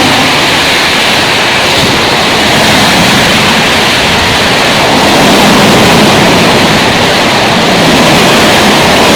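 A train passing at speed: a loud, steady rushing roar of wheels and air, just after its horn, whose last note falls away in pitch at the very start.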